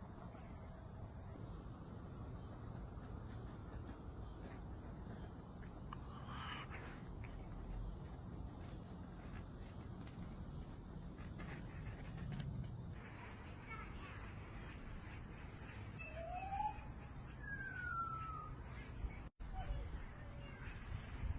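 Quiet outdoor background with insects trilling in a steady high tone. From about the middle a regular pulsed chirp sets in, and near the end come two short sliding calls.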